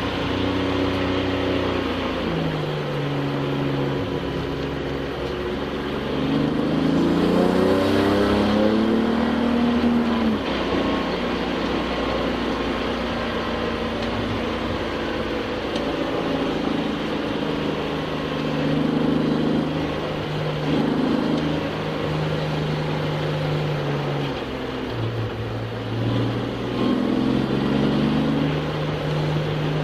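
Touring race car's engine heard from inside the cabin, accelerating hard with its pitch climbing about six to ten seconds in. It then holds a steady pitch, drops about 25 seconds in and climbs again.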